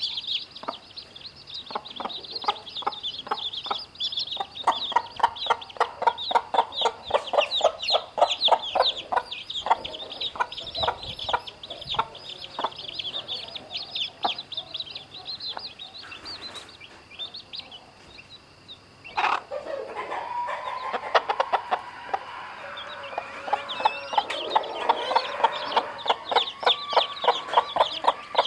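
A brood of chicks peeping constantly in high, quick chirps while the mother hen clucks in rapid runs; a single knock sounds about two-thirds of the way through.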